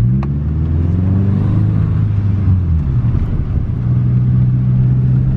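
A 2.5 RS Subaru Impreza's flat-four engine running through a muffler-deleted exhaust. The revs climb in the first second and hold, fall back about three seconds in, then hold steady again.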